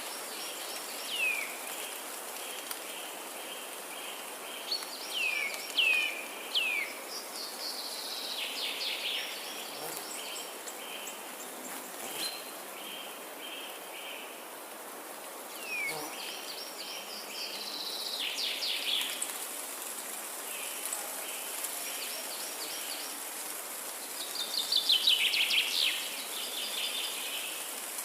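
Forest ambience: songbirds singing in repeated short downward-sweeping whistles and bright trills, with a loud trill about three-quarters of the way in, over a pulsing insect-like buzz and a steady background hiss.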